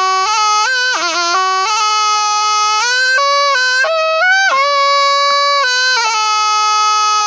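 Thai pi, a reed oboe, playing a solo melody in one unbroken line, stepping between held notes with quick trills and slides.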